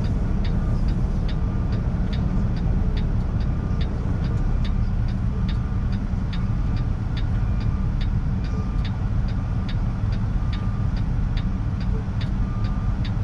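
Semi truck's diesel engine running low and steady, heard from the cab, with the flasher relay ticking evenly about two to three times a second and a faint short beep repeating a little under once a second.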